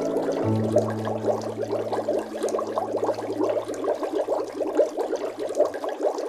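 Water bubbling and gurgling in a dense stream of quick small pops. A low held note from the soundtrack's music sits underneath and fades out near the end.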